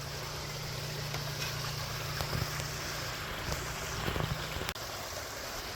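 Steady rushing splash of a backyard koi pond's waterfall, with a faint low hum and a few small ticks.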